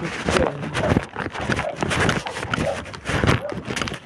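Irregular footsteps and scuffing, a quick uneven series of knocks and crunches, with wind rumbling on the microphone.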